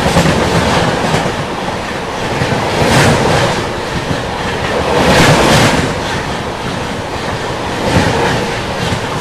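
Passenger train running along the track: a steady rumble of wheels on rails, swelling into a clatter over rail joints every couple of seconds.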